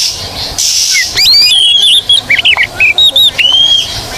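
Oriental magpie-robin (kacer) singing: harsh, hissing notes in the first second, then a fast run of varied whistled notes sliding up and down.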